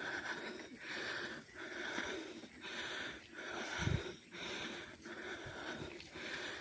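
A cyclist's hard, rhythmic breathing, quick breaths following each other about every half second to second as he rides. A short low thump about four seconds in.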